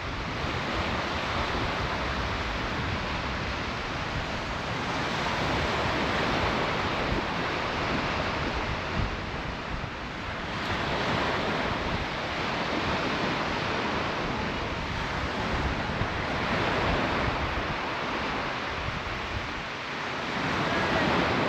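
Surf breaking and washing on a beach, swelling and falling every few seconds, with wind rumbling on the microphone.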